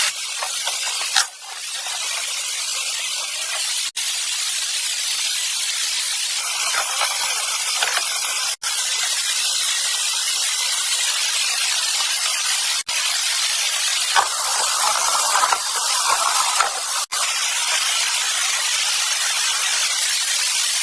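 A steady hiss, broken by short dropouts every few seconds.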